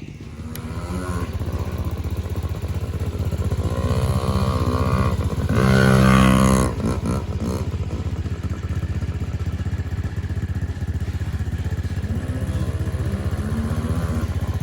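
Small dirt bike engine running, revving up about four seconds in to its loudest burst around six seconds, then dropping back to a steady run and revving again near the end.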